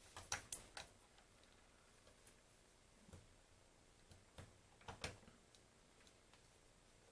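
Faint plastic clicks of buttons being pressed on a Bang & Olufsen BeoCom 2 handset keypad: a quick run of about four clicks in the first second, a few single ticks, then a louder pair about five seconds in.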